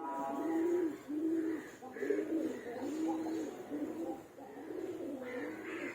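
Dove cooing: a low, soft note repeated about once a second.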